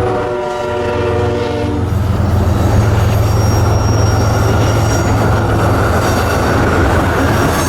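Diesel locomotive horn sounding for about two seconds, then the locomotive's engine running loud and steady with rail noise as the train moves.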